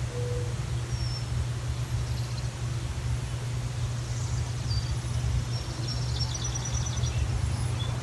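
Small birds chirping: a few short high chirps, then a brief twittering run of notes between about six and seven seconds in, over a steady low rumble.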